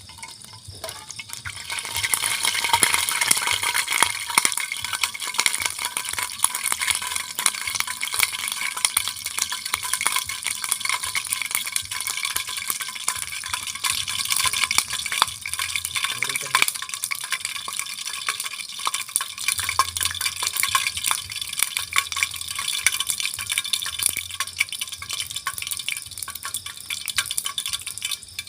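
Food frying in hot oil in a pan: a dense sizzle full of fine crackles that rises to full strength about two seconds in and stays steady.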